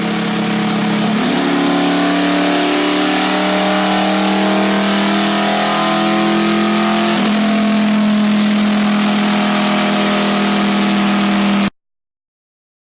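NASCAR stock car's V8 racing engine running hard at steady high revs, its pitch stepping up about a second in and again about seven seconds in, then cutting off abruptly near the end.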